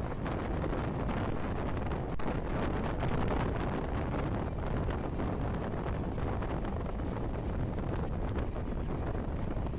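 Wind buffeting the microphone of a camera held out of a moving train, over the steady running rumble of the train on the rails.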